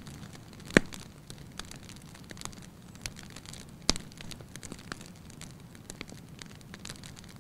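Wood fire crackling in a fireplace: irregular small snaps over a steady low hiss, with two louder pops, one near the start and one about four seconds in.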